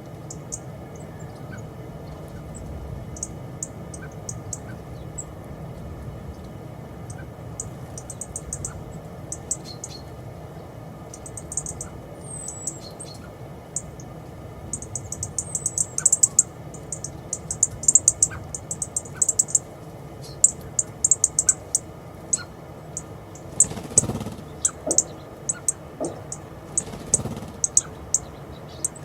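Small garden birds chirping and ticking in quick high bursts, busiest in the middle and latter part, over a steady low background rumble. Two louder, broader noises come near the end.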